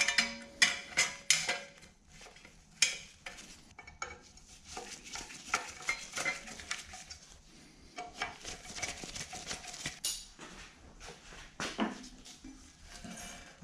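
Metal parts and tools clinking and scraping as they are handled. A quick run of sharp clinks comes first, then a louder clack about three seconds in, then several seconds of rattling and scraping, and another knock near the end.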